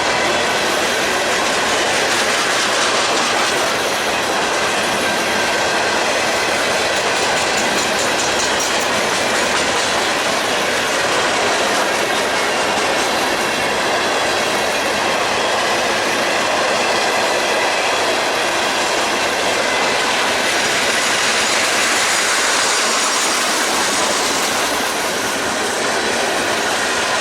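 Freight train cars rolling past, a steady noise of wheels on rail that holds unbroken throughout.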